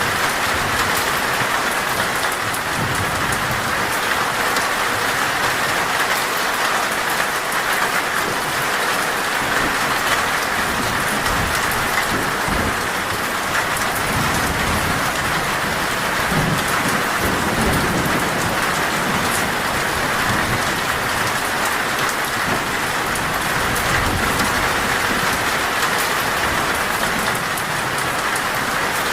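Heavy rain falling steadily on a metal roof, a dense even hiss of drops. Low thunder rumbles through the middle.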